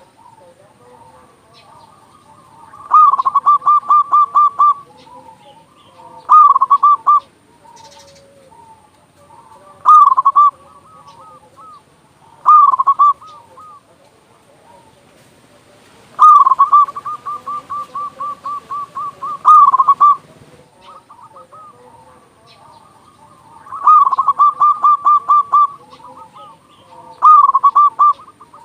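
Zebra dove (perkutut) singing loudly in repeated phrases of quick, rattling coos. There are seven phrases, with a long one about two-thirds of the way through.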